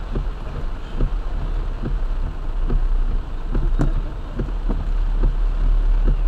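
Heavy rain drumming on a car's roof and windshield, heard from inside the cabin, with irregular knocks about twice a second over a steady low rumble from the moving car. There is one sharp tick about halfway through.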